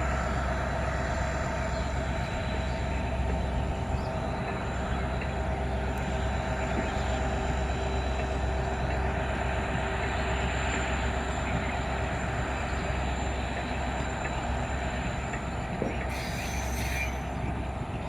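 Passenger train running on the rails: a steady rumble with high, steady wheel-squeal tones over it, and a brief hiss near the end.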